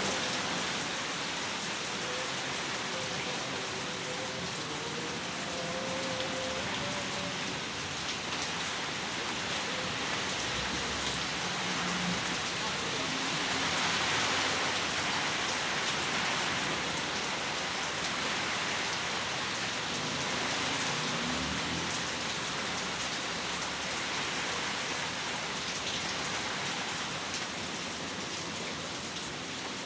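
Heavy rain pouring steadily, a dense hiss of rain on surfaces that swells a little about halfway through.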